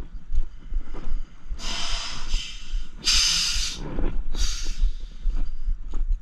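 A man breathing hard close to a body-worn microphone: three heavy, hissing breaths in the middle, over low rumbling and small knocks from handling.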